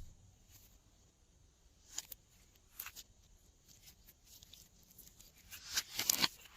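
Glossy slime being squeezed and stretched by hand: scattered sticky clicks and small pops, with a louder run of crackling near the end.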